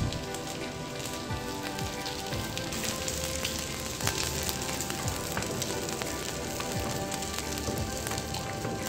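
Steady sizzling of food frying on the stove, with scattered light clicks and scrapes of a silicone spatula stirring pasta into sauce in an aluminium saucepan.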